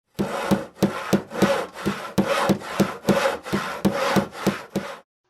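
Hand saw cutting through wood in quick back-and-forth strokes, about three a second, stopping near the end.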